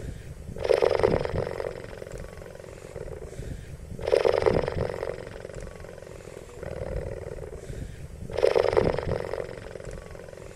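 Cheetah calling: three loud calls, each about a second and a half long, come about four seconds apart, with softer calls in between.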